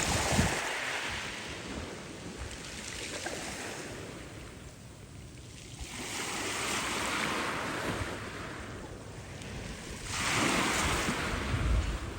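Black Sea waves breaking on the shore, three surges of surf a few seconds apart, with wind buffeting the microphone near the start and end.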